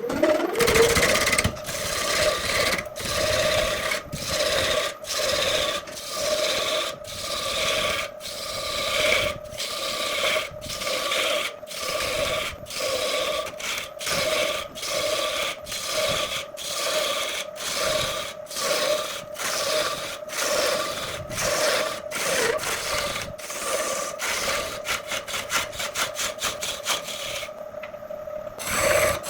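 A hand tool worked back and forth on wood in steady strokes, about one a second, with a ringing pitch to each stroke. The strokes come quicker near the end.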